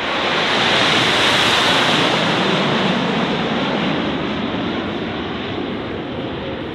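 Jet engine noise from the Snowbirds' CT-114 Tutor jets passing by. It swells quickly to a peak about a second and a half in, then slowly fades.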